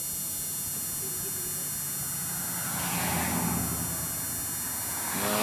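Car running, a steady engine hum with road noise that swells louder about three seconds in.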